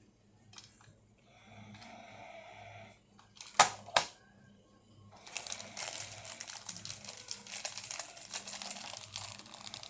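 Plastic toy packaging being handled and unwrapped, with two sharp clicks about three and a half seconds in, then steady crinkling of the plastic wrapping.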